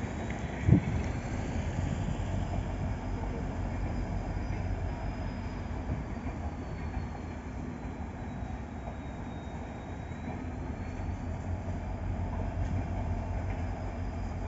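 Passenger express train of red coaches running steadily along the track at a distance, a continuous low rumble. A single short thump stands out a little under a second in.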